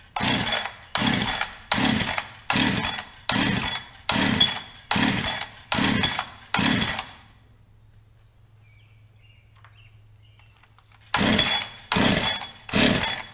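Holzfforma 372XP chainsaw being pull-started with the choke on: about nine quick pulls of the recoil starter cord, a pause of a few seconds, then three more. The engine cranks but does not catch; the owner then finds it flooded.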